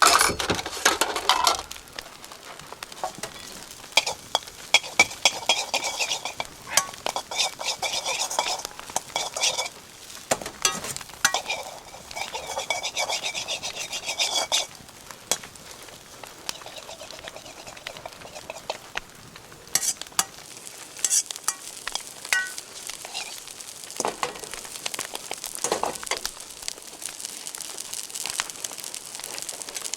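Fried rice sizzling in a wok over a campfire, with a metal utensil repeatedly scraping and clanking against the wok as it is stir-fried. The clanking is loudest at the start and thins out about halfway, leaving mostly the sizzle.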